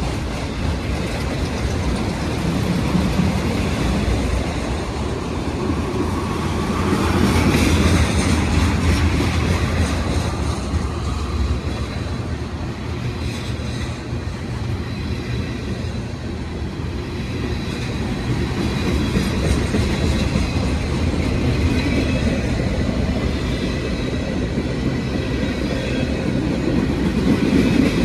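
Passenger train running, heard from inside the car: a steady rumble that swells and eases, with the clicks of wheels passing over rail joints.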